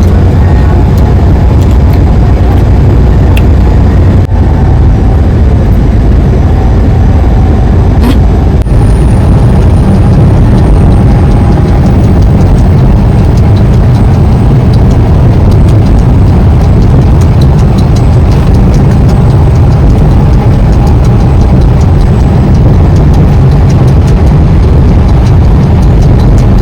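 Semi truck running, a loud steady low rumble of engine and road noise.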